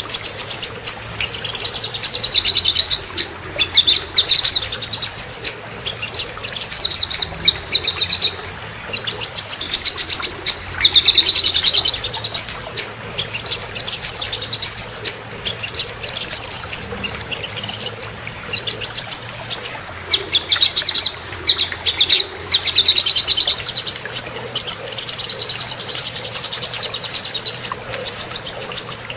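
Songbird song from a masteran tutor recording: loud, fast chattering trills in phrases a second or two long, separated by short breaks.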